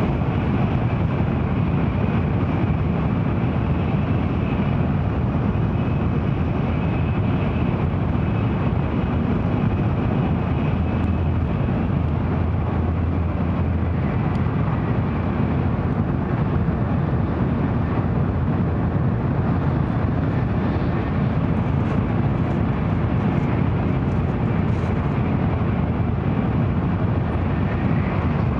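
Steady running noise inside the cabin of a Tokaido Shinkansen N700-series train: an even rumble, heaviest in the low end, with a faint high whine above it.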